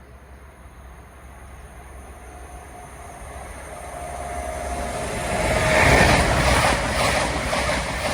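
A train approaching and passing at speed on the main line, growing steadily louder to a peak about six seconds in, with a regular clicking of wheels over the track as the carriages go by.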